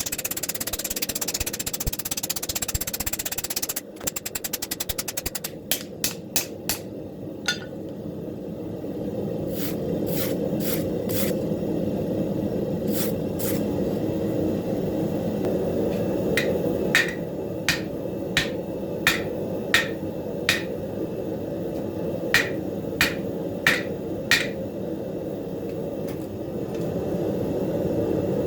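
Hand hammer striking hot leaf-spring steel on an anvil. A quick run of light taps comes about four seconds in, followed by scattered blows. Later comes a steady series of ringing strikes, about one and a half a second. The steady rush of the forge runs underneath.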